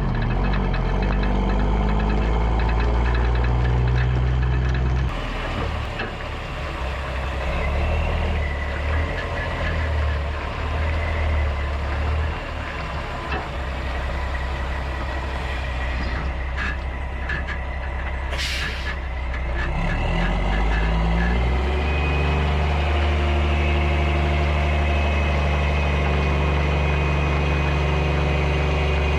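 Mack semi truck's diesel engine running under load while hauling a lowboy trailer, its note shifting a couple of times as it changes speed and gear. A short burst of air hiss about eighteen seconds in.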